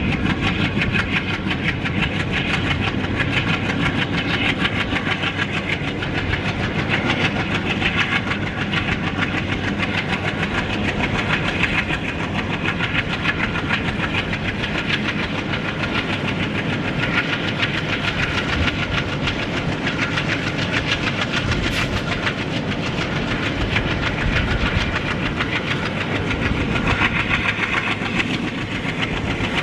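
Express train running at speed, heard from on board: the steady rumble and rattle of the coaches on the track, mixed with the ALCO-design WDG-3A diesel locomotive working hard.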